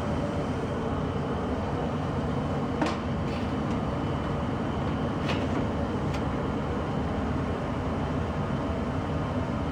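1994 Tempstar SP80 gas furnace running steadily, its burners and blower giving an even rushing noise. A few sharp metal clicks and knocks sound over it, the loudest about three seconds in, as the sheet-metal front cover is put back on.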